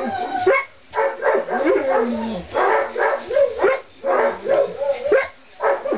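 Young Weimaraner–English Setter mix puppies, about two and a half weeks old, whining and squealing. Several high, wavering cries overlap in runs broken by short pauses.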